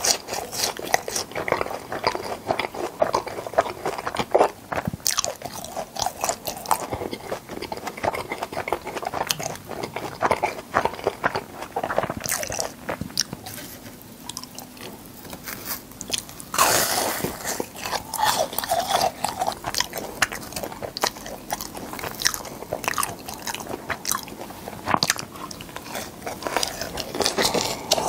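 Crunchy biting and chewing of deep-fried cheese balls with a crisp breaded crust, many small crackles close to the microphone. About halfway through the crunching dies down for a few seconds, then a loud new bite starts the crunching again.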